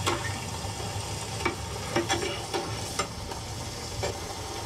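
Slices of elephant foot yam frying in a wide pan of hot oil: a steady sizzle, with metal spatulas clicking and scraping against the pan now and then.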